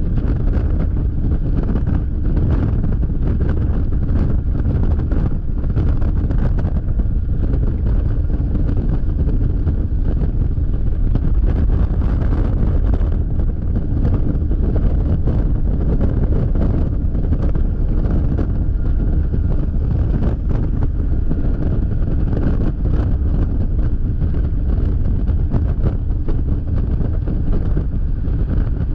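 Wind roar buffeting an action camera's microphone while riding a Yamaha XMAX scooter at freeway speed, with the scooter's engine and road noise running steadily underneath. Loud and steady, with constant gusty crackle.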